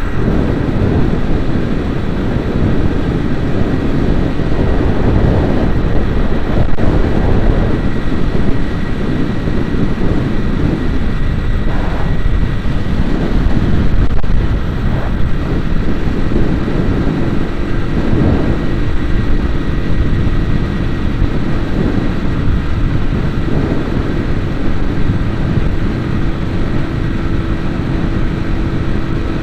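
Vehicle driving along a road: steady, heavy engine and road rumble, with a steady engine tone joining about halfway through.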